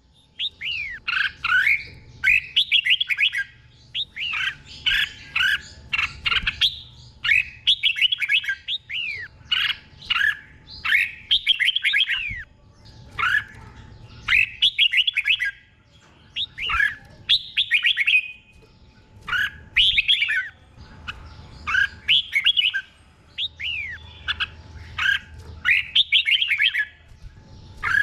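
Red-whiskered bulbul singing: short, loud, whistled phrases with quick rising and falling glides, delivered in runs one after another, with brief pauses every few seconds.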